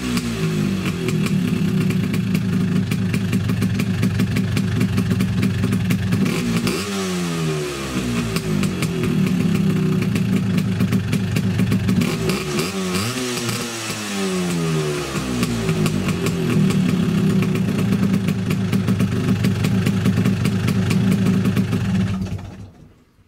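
Two-stroke Vespa scooter engine with a W1R box exhaust running hard. Its pitch falls and climbs again several times, and it cuts off near the end. The exhaust is loud.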